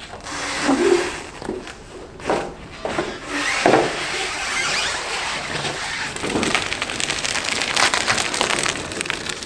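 Garage door being opened by hand: a few knocks and scrapes, then a steady rattling run with many small clicks as the door travels.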